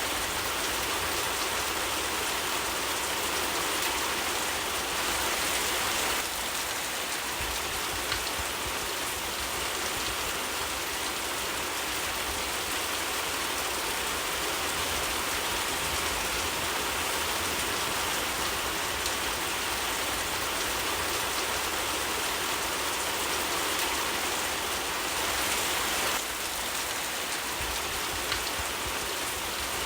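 Steady rain falling, an even hiss with a faint tick of a drop now and then.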